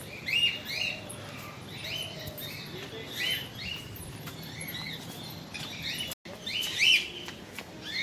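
Many small birds chirping busily, short repeated calls overlapping one another. The sound cuts out for an instant about six seconds in.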